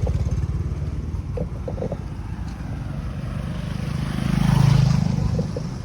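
A small engine running close by with an even pulsing beat that fades over the first few seconds, then another motor passes, swelling to its loudest about four to five seconds in and falling away near the end.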